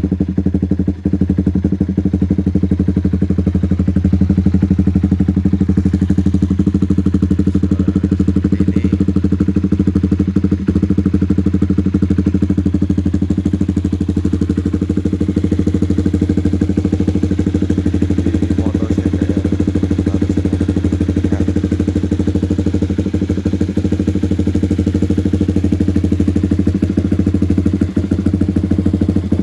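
Honda CBR150R single-cylinder engine idling steadily through a Rockvan aftermarket exhaust, with an even, unchanging note.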